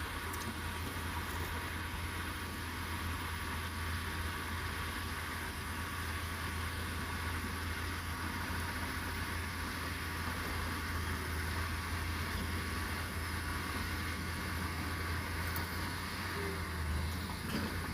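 Heavy diesel engine of earthmoving equipment running steadily with a deep, even hum, with a small knock near the end.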